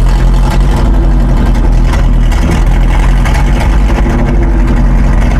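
1974 Chevy grain truck's engine running steadily at low revs while driving the dump bed's hoist, which is raising the bed only barely.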